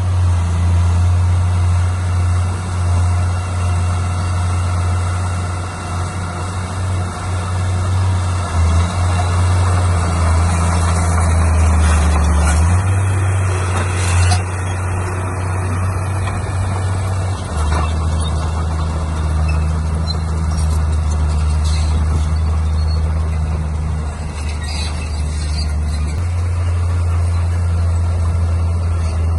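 Heavy construction machine's diesel engine running with a steady low drone that steps in pitch a few times. About halfway through, a louder hissing stretch ends in a sharp click.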